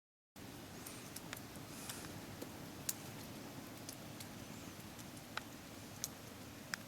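Quiet background hum with scattered, irregular small clicks and ticks.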